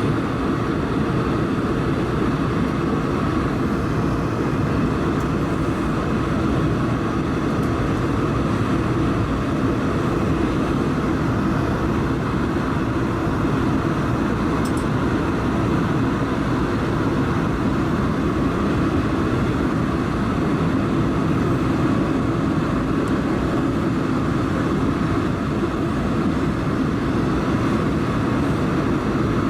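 Steady cabin noise inside an Airbus A220-300 airliner during descent: the even rush of its Pratt & Whitney geared turbofan engines and airflow, heard from the passenger cabin, with no change throughout.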